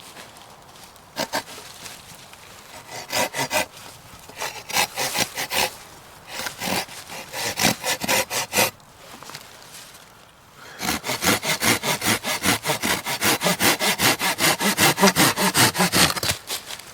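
Hand saw cutting through wood in back-and-forth strokes: a few short starts, a pause, then a long fast run of about three or four strokes a second in the last third.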